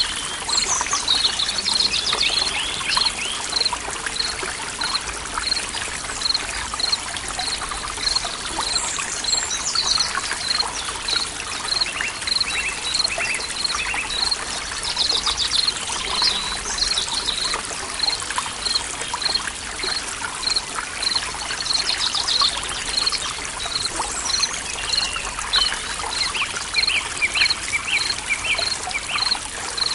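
Forest stream trickling steadily, with birds chirping and trilling over it and a short high note repeating evenly, a little more than once a second.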